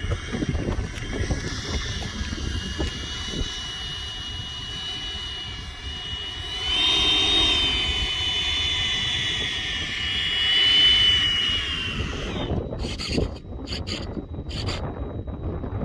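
Electric ducted fan of a Freewing Avanti S 80mm model jet whining in flight. It swells as the jet passes about seven seconds in and again near eleven seconds, then cuts off about twelve seconds in, leaving wind on the microphone.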